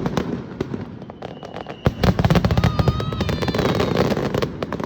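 Aerial fireworks bursting, with dense rapid crackling and a single sharp bang a little under two seconds in.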